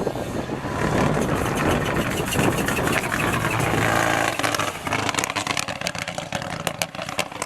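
Rally car engine at high revs, loud for the first half, then falling away over the second half with a run of sharp cracks and pops.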